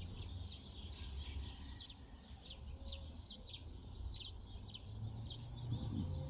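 Small birds chirping: a steady run of short, high chirps, about two a second.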